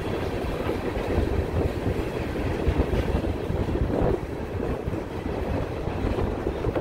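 Open-top hopper cars of a freight train rolling past, making a steady rumble of steel wheels on the rails.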